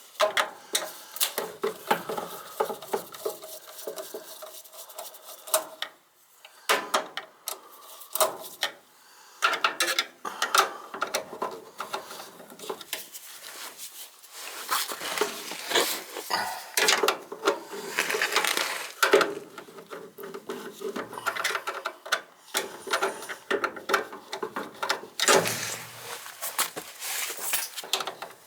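Irregular metallic clicking, clinking and rustling of hand tools and small parts being handled during wiring work, with short pauses.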